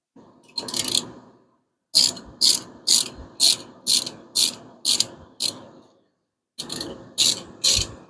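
Hand ratchet wrench clicking in repeated strokes, about two a second, in two runs with a pause between, as the rocker shaft bolts on a 5.7 Hemi are snugged down a little at a time.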